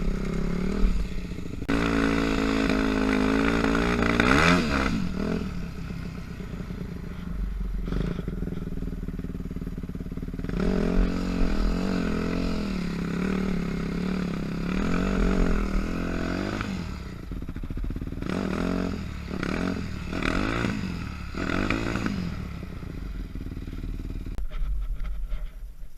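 Yamaha YZ dirt bike engine revving up and down repeatedly while riding through deep snow. It falls away sharply near the end.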